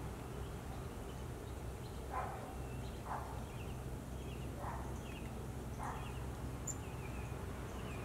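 Wild songbirds calling: short high chirps every second or so, with four louder, lower notes about a second apart in the middle, over a steady low background rumble.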